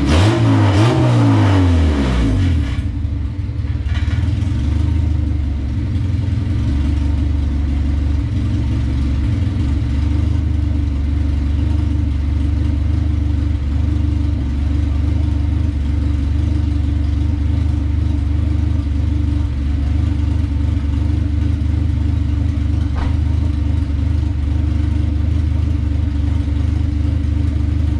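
1994 Acura Integra GSR's four-cylinder engine revved once, its pitch falling back over the first two or so seconds, then idling steadily. The engine is running on fresh fuel, coolant and oil after two years sitting.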